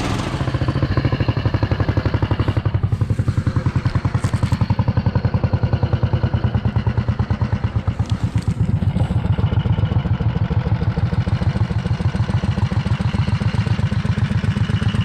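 Tractor engine running hard with a fast, even pulsing beat.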